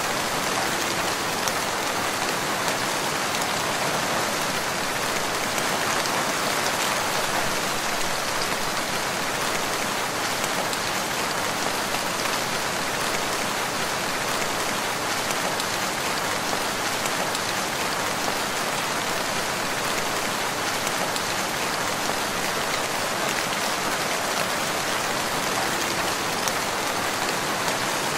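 Steady rain falling in a forest, an even hiss of many drops with no breaks or changes.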